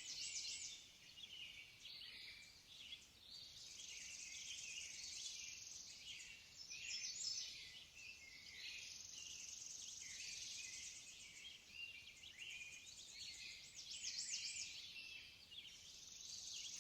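Faint birdsong: many birds chirping and trilling at once, with quick rising and falling notes, over a steady high-pitched hiss.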